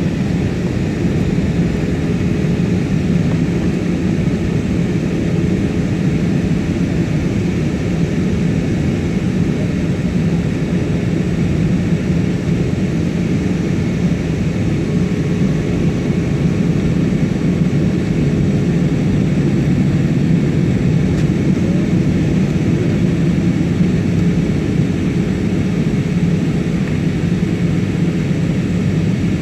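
Steady cabin noise inside an Airbus A320 jet airliner on its landing approach: an unbroken low roar of engines and rushing air, with a faint steady hum running through it.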